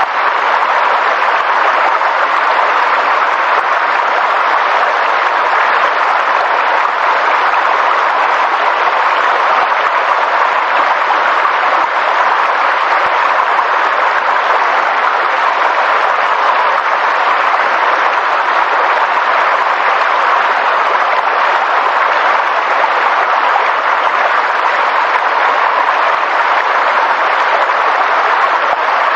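Steady, even noise of water, dense and unbroken, with no single drops or splashes standing out.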